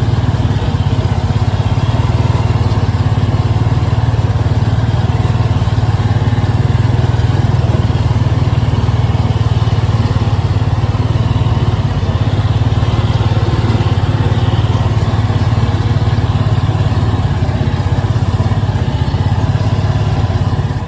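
A combustion engine running steadily at a constant speed, with a fast even pulse and no revving.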